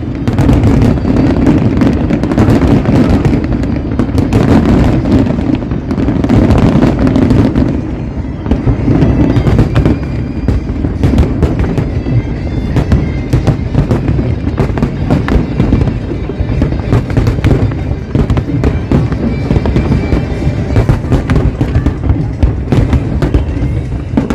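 Large aerial fireworks display: dense, rapid bangs and crackles going off continuously, with music playing alongside.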